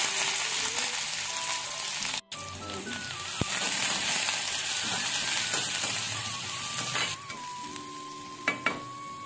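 Chopped onions sizzling in hot oil in an iron kadai as they are stirred with a metal spatula; the sizzle weakens about seven seconds in, and a few clinks of the spatula on the pan come near the end.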